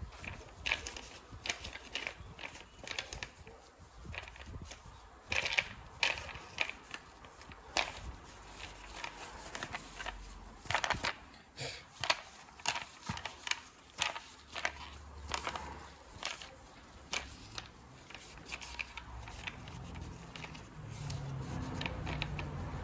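Irregular short scrapes and clicks of hand work on an engine's timing belt cover, as it is cleaned of belt dust and handled. A low steady hum comes in near the end.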